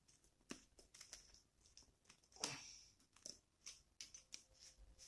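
Near silence with faint, scattered clicks and light scrapes of iron wire and pliers being handled, the most noticeable about two and a half seconds in.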